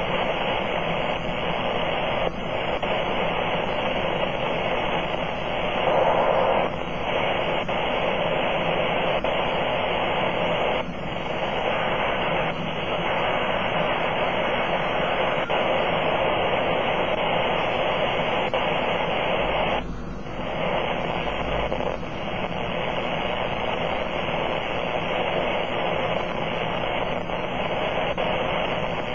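Apparent powerline interference (RFI) on the 80-meter amateur band, heard through a Kenwood TS-480 receiver: a steady, harsh buzzing hiss at about S7 that covers weaker stations. It has one short louder surge about six seconds in and a few brief dips. It is typical of arcing from broken hardware on power poles.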